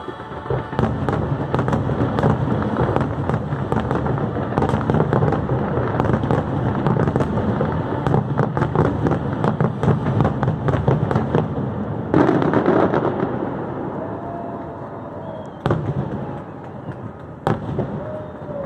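Fireworks going off in rapid barrages of crackling and bangs, with a big burst about twelve seconds in. The barrage then thins out, ending with two sharp single bangs.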